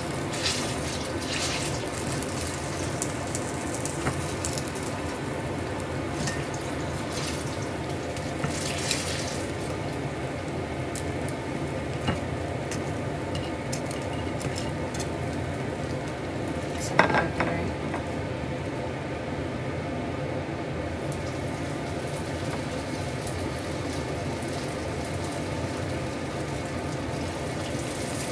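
Banana turon frying in a pan of hot oil, a steady sizzle, with scattered clicks of a utensil against the pan and one louder knock a little past the middle.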